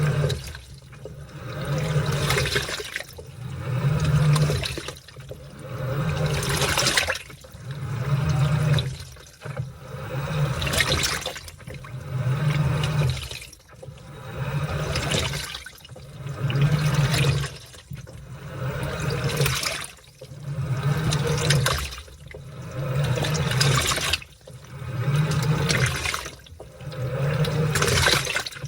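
Washing machine churning a load of laundry in water. The water sloshes in regular surges about every two seconds as the load is turned back and forth, each surge with a low motor hum.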